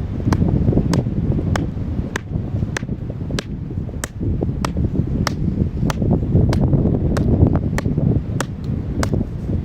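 Blizzard wind buffeting the microphone, with a sharp click about every 0.6 seconds at a walking pace.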